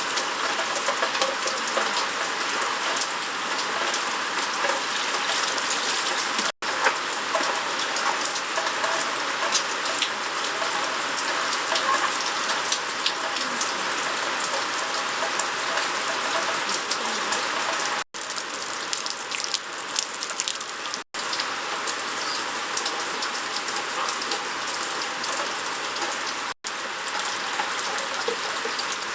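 Steady rain falling, a dense even hiss of many drops. The sound cuts out for a split second four times.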